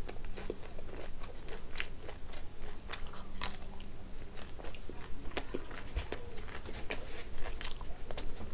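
Close-miked chewing of a mouthful of rice and fried fish, with many sharp wet mouth clicks and lip smacks scattered irregularly through it. Near the end comes a bite into a raw tomato.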